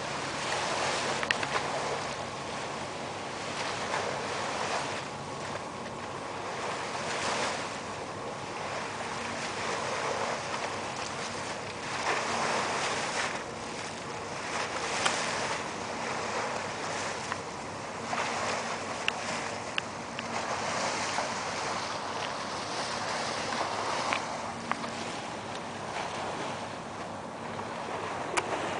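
Wind rushing over the camera microphone during a bike ride, swelling and easing every few seconds, with a few light clicks.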